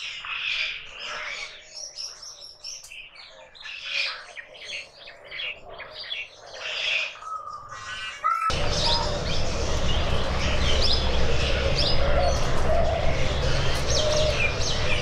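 Many small birds chirping and twittering in quick, overlapping high calls. About eight and a half seconds in, a steady low rumble starts suddenly beneath the chirps and carries on.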